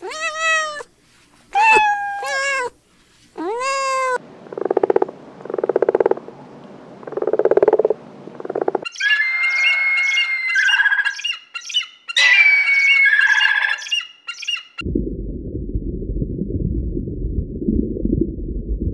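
Kittens meowing, four short calls, then low pulsing purrs. About nine seconds in, a bald eagle gives high piping, chattering calls for several seconds. For the last few seconds there is a steady low rushing of aquarium water.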